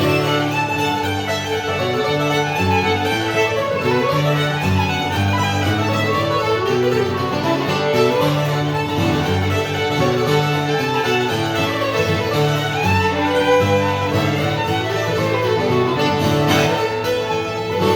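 Old-time string band playing a fiddle tune: the fiddle carries the melody over guitar accompaniment, at a steady, lively pulse.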